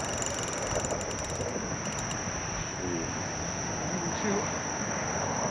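Crickets chirping in a steady night chorus. Over the first second and a half, and again briefly about two seconds in, there is a rapid clicking: a fishing reel's drag paying out line as a gar runs with the bait.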